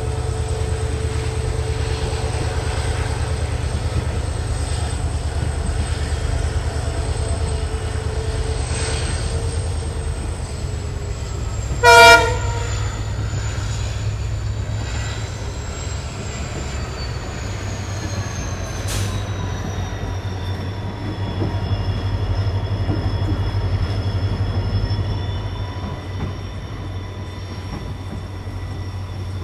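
Passenger train running, with the steady low hum of its WDP4 locomotive's EMD diesel engine. About twelve seconds in, the locomotive's horn gives one short blast.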